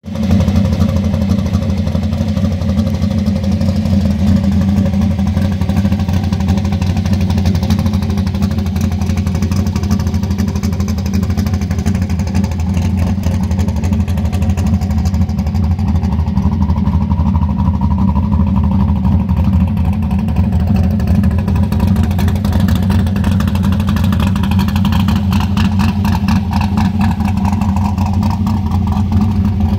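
1971 Chevrolet Camaro pro street car's engine idling steadily, a low, even running note with no revs.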